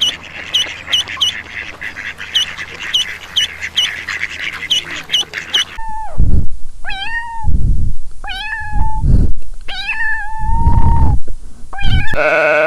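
A cat meowing repeatedly, about five drawn-out meows in the second half, after a run of rapid, high chirps in the first half. A different, buzzier animal call starts just before the end.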